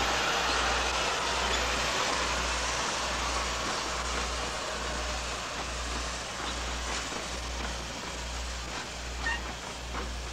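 A steam train rolling past: a rushing rail noise that slowly fades as the train's wagons and coaches go by, with a few sharp clicks near the end.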